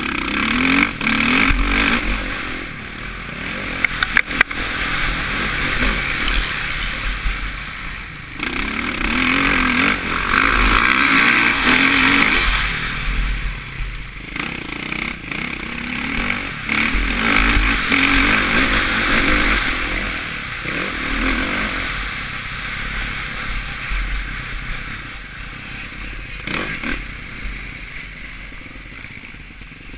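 Suzuki RM-Z450's single-cylinder four-stroke engine revving up and down as the motocross bike is ridden round the track, heard from a helmet camera. A few sharp clicks come about four seconds in; the engine is loudest around ten to thirteen seconds in and eases off over the last several seconds.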